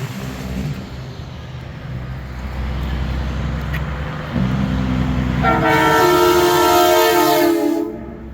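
Diesel semi-truck engines rumbling, then a loud multi-note air horn blast, a train-style chord held for about two seconds, sounds over them a little past halfway through.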